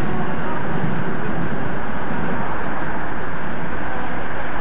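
Steady, loud rumbling noise as a London Underground train pulls away from the platform into the distance.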